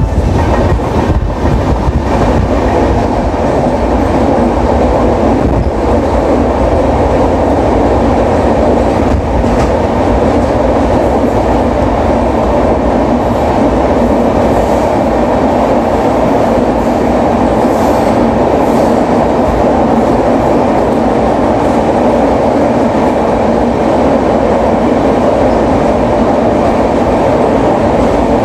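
Gondwana Express passenger coach running on the line, heard from on board: a steady, loud rumble and rattle of wheels on rails.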